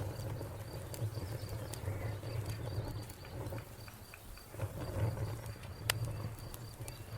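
Wood fire crackling with scattered sharp pops, the loudest about six seconds in, over a low steady rumble of flames. A cricket chirps throughout in a high, even pulse of about four chirps a second.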